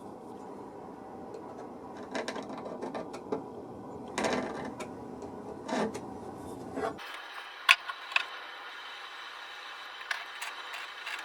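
Scattered light clicks and knocks of small mechanical parts being handled, with one sharp click about two thirds of the way in, over a steady background hiss.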